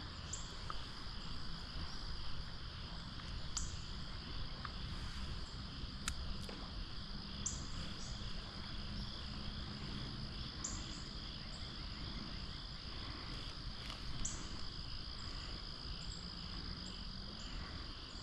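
Steady chorus of crickets and other insects: a continuous high trill with a pulsing beat under it, and a sharper, higher chirp repeating every few seconds, over a low, even background rush.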